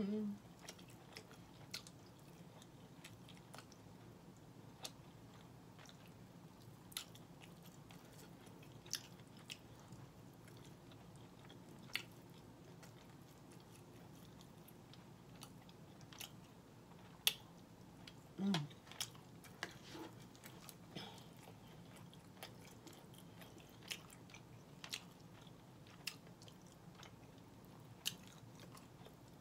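Close-up eating sounds from a person chewing smoked turkey neck meat picked off the bone: quiet chewing with scattered sharp wet mouth clicks and smacks every second or two. A brief low hum comes about two-thirds of the way through.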